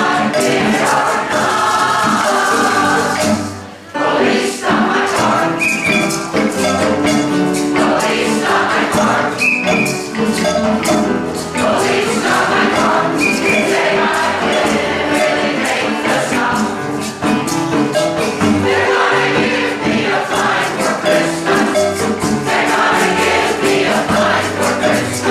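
A choir singing an upbeat song with instrumental accompaniment and a steady percussive beat; the music drops away briefly about four seconds in.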